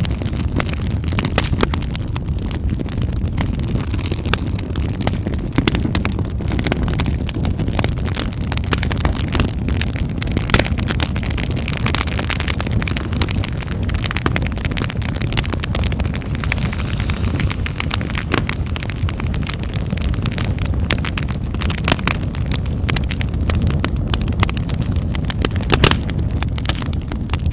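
Fire crackling in a fireplace: a steady low rumble of the flames with frequent irregular sharp pops and snaps.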